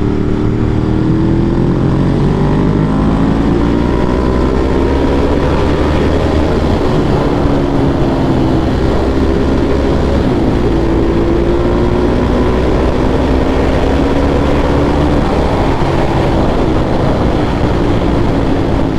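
Ducati 1198S's L-twin engine pulling under way, its pitch climbing as it speeds up and then easing off and rising again several times as the throttle varies.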